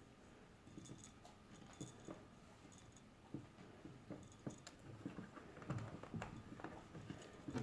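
Faint, irregular small clicks and taps of plastic toy parts being handled and pushed into a plush body, growing more frequent after about three seconds.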